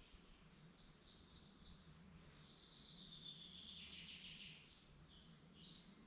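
Faint forest birdsong: a run of four quick high notes about a second in, then a longer trilling phrase, then scattered high chirps near the end, over a faint steady low background hum.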